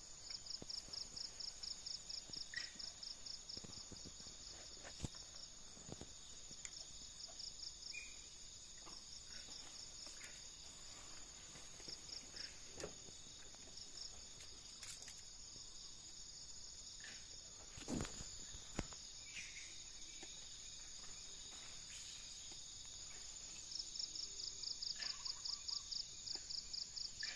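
Insects such as crickets chirping in a steady high chorus, with trains of rapid pulses near the start, around the middle and toward the end. Faint scattered clicks and a brief low thump about eighteen seconds in.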